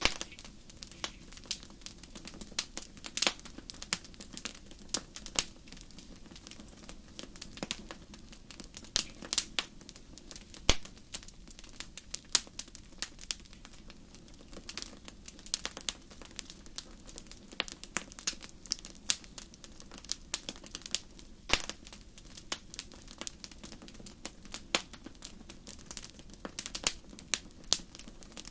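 Wood fire in a fireplace crackling: irregular sharp pops and snaps over a steady low hiss of burning, with a few louder pops standing out.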